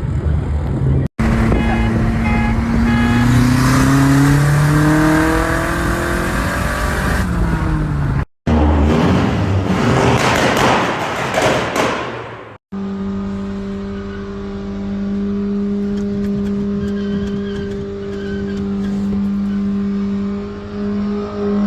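Loud race-car engine sound in several abruptly cut clips. First the engine pulls hard, rising in pitch and then dropping off. Then comes a stretch of loud noise, and finally the engine holds at a steady pitch for the last several seconds.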